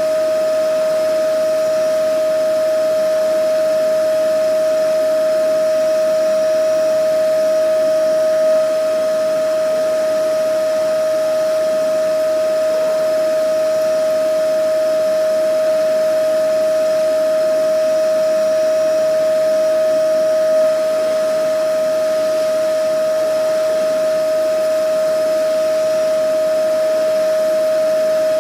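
Vacuum cleaner running steadily: a constant high motor whine over an even rush of air, unchanging in pitch and level.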